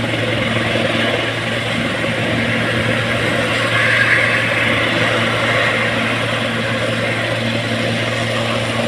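Helicopter running with a loud, steady engine and rotor noise, as it comes in to land.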